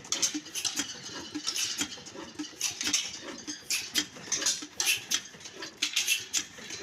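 Old black diesel stationary engine running, giving a soft low beat about three times a second under a stream of irregular metallic clicks and clatter.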